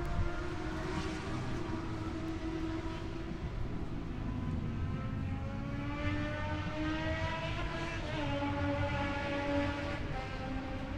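Racing motorcycle engine under load, its pitch climbing steadily and then dropping back about eight seconds in, like an upshift, before climbing again.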